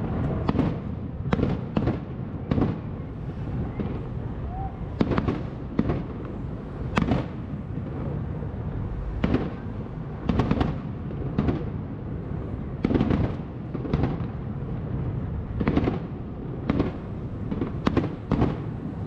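Fireworks display: a continuous run of bangs and crackles at irregular intervals, a shell bursting every second or so, over a steady low rumble.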